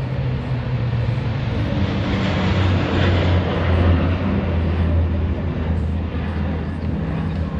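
Four turboprop engines of a C-130J Super Hercules droning as the aircraft passes. A low steady tone sits under a rushing noise that swells to its loudest about three to four seconds in, then eases off.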